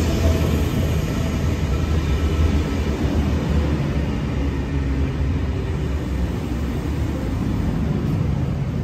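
A train running past at a station: a steady low rumble that eases slightly near the end.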